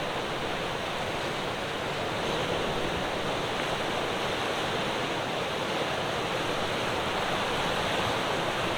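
Ocean surf washing on the shore as a steady, even rush, with no single wave crash standing out.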